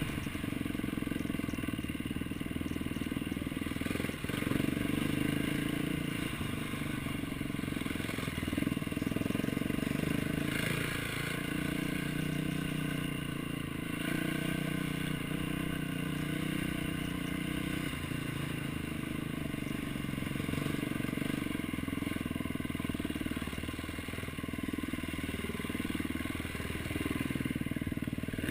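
A motocross bike's engine running continuously, its revs rising and falling.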